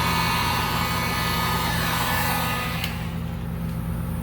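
Heat gun blowing hot air to shrink heat-shrink tubing over a fuel-line connection, a steady hum under an airy hiss, switched off about three seconds in.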